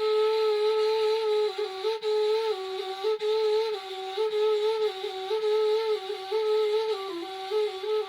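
Background music: a solo flute playing a slow melody that steps back and forth between a few neighbouring notes.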